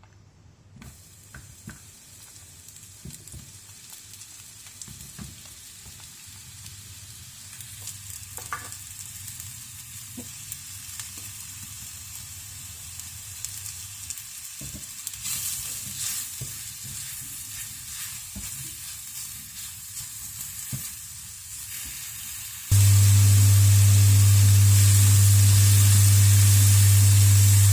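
Food sizzling in a frying pan, growing slowly louder, with light clicks of a utensil stirring. Near the end a much louder steady hum with hiss starts suddenly.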